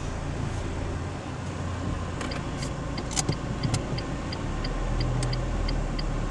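Car engine and tyre noise heard from inside the cabin while driving, with the turn-signal indicator ticking about three times a second from about two seconds in. A few sharp clicks fall around the middle.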